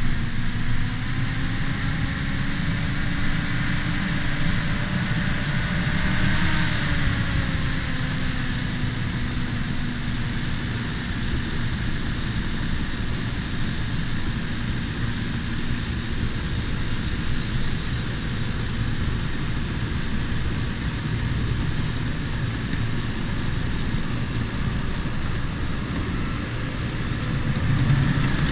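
Bulldozer diesel engine running steadily while stripping topsoil, its pitch rising about six seconds in and easing back down.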